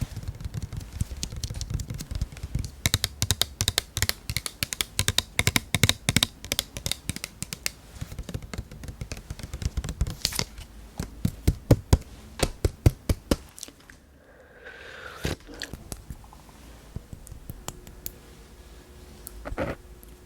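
Close-up handling and opening of food packaging: rapid tapping clicks and scratchy tearing and scraping sounds, thinning out to a few scattered clicks about two-thirds of the way in.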